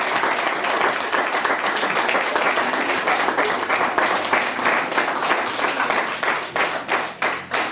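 Audience applauding, a dense wash of clapping that falls into slow rhythmic clapping in unison, about two claps a second, near the end.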